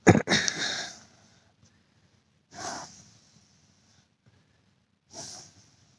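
A person breathing noisily through the nose three times, about two and a half seconds apart, the first the loudest.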